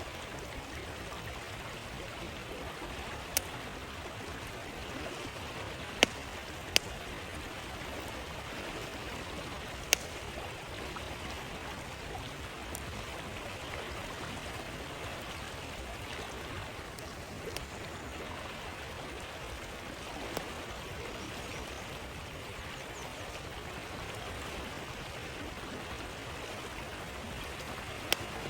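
Steady rush of a flowing stream, with a campfire's sharp pops and cracks now and then at irregular intervals.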